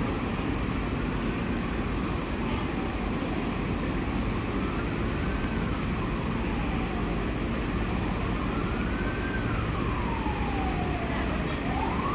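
A passenger train's steady low rumble as it moves slowly along the platform. From a few seconds in, a wailing siren rises and falls slowly in pitch over it, about one sweep every three to four seconds.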